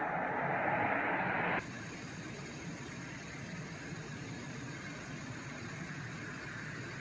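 Freight train boxcars rolling slowly past on the rails: a steady noise of wheels on track. About a second and a half in, it drops suddenly to a quieter, steadier hiss.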